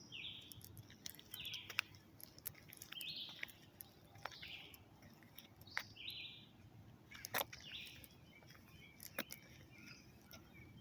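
A bird repeating a short chirping call about six times, a second or two apart, with scattered sharp clicks in between.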